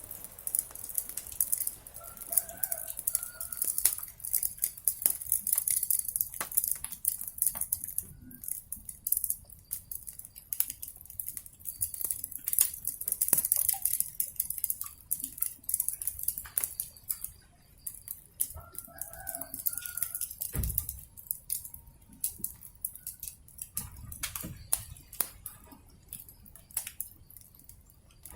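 Wood fire crackling with a steady hiss and frequent sharp pops. A chicken calls twice, about two seconds in and again near two-thirds of the way through.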